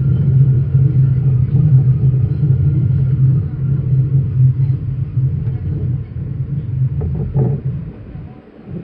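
Train running with a steady low rumble that dies away near the end, with a few knocks shortly before it fades.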